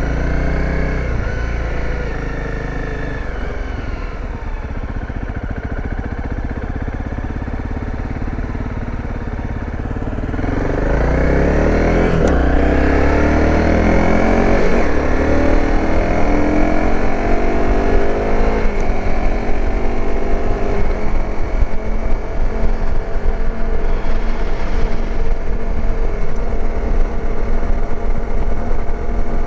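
Dirt bike engine running under way. It holds a steady lower pitch at first, then about ten seconds in it accelerates hard, the revs climbing and dropping back several times as it shifts up through the gears.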